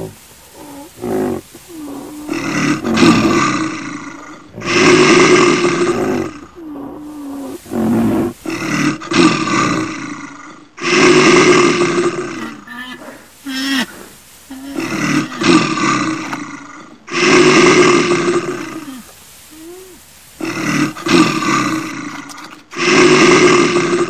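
A large animal roaring again and again: about eight deep roars, each lasting about a second, coming a couple of seconds apart.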